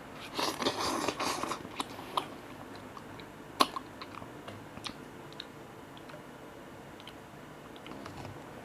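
Someone eating cup noodles close to the microphone: chewing sounds, with a dense noisy spell in the first second and a half, then a few sharp clicks, the loudest about three and a half seconds in.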